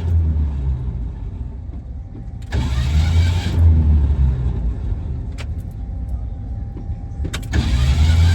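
1968 Ford Mustang's starter cranking in three short grinding bursts without the engine catching, over a steady low rumble; the owner takes it for a torn flex plate.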